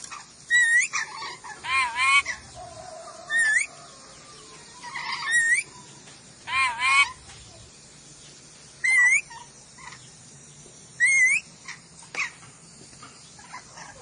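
A Sulawesi nuri dora parrot giving loud, shrill calls, about eight in all, each a short harsh call with a wavering or sharply rising pitch, one every second or two.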